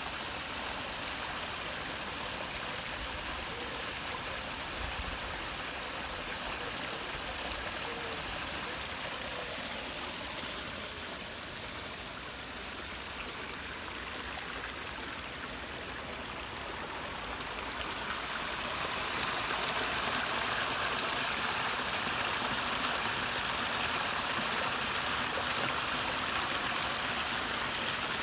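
Waterfall: a steady rush of falling water that grows somewhat louder about two-thirds of the way through.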